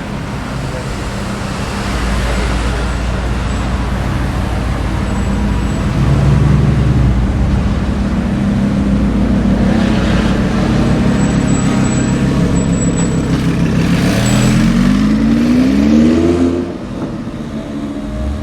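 Audi R8 V10 Plus's V10 engine through a Capristo exhaust, a steady low drone that grows louder. About 14 seconds in it revs up, its pitch rising for a couple of seconds, then the sound drops away sharply.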